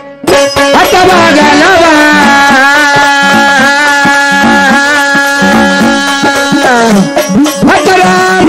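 Marathi folk devotional music: a singer holds one long note for about six seconds over steady drum strokes, then the melody starts moving again near the end.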